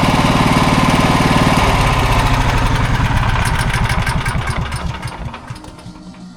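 Honda EB5000X generator's engine running, then shut off about a second and a half in, its firing beats slowing as it coasts down and goes quiet near the end. This is the unit with its worn governor arm replaced.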